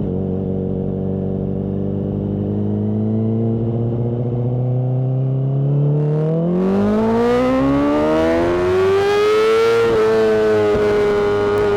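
Honda CBR600RR inline-four with a Mivv exhaust, running steadily at first, then climbing smoothly in revs from about halfway through to a high note that holds near the end.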